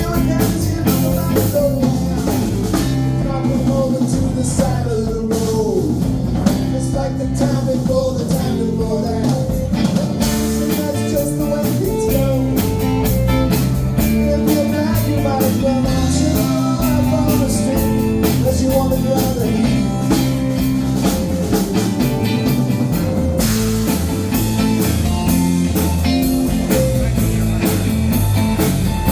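Live band playing blues-rock, with electric guitar over bass and a drum kit.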